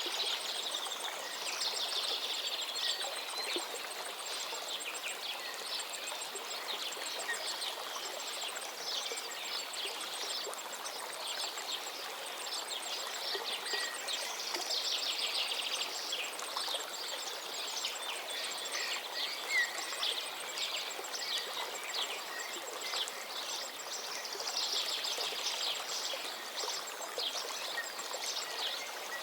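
A calm river flowing with a steady rushing murmur, while songbirds sing over it. Their rapid trilling phrases come back every ten seconds or so.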